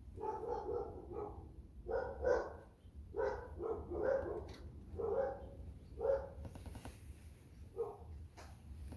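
Dog barking repeatedly, in short bursts of one or two barks every second or so, over a steady low rumble.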